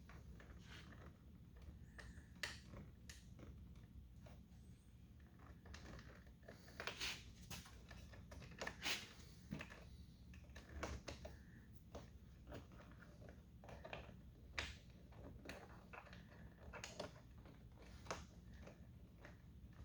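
Irregular light clicks and taps of small bolts and parts being handled and fitted into a pickup truck door, over a faint steady low hum.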